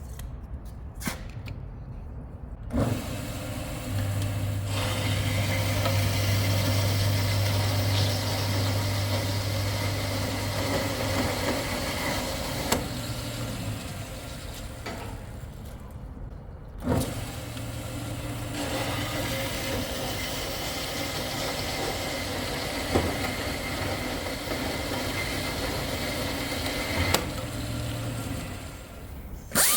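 Metalworking power tools running on steel: a steady noisy whir with a low hum, in two long stretches broken by a short pause near the middle, with a few sharp knocks.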